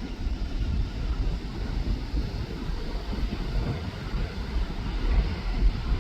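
Wind buffeting the microphone: an uneven, gusty low rumble with no clear tone.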